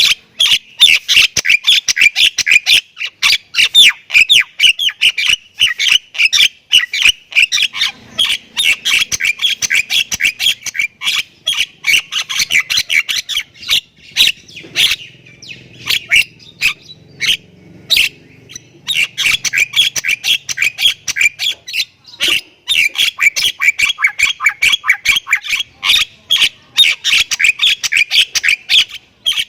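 Jalak kebo myna chattering non-stop: rapid harsh calls, several a second, thinning to scattered single calls for several seconds in the middle before the dense run starts again.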